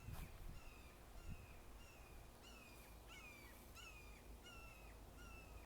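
A hawk calling faintly, a steady series of short, high, downward-sliding cries about one every half second or so.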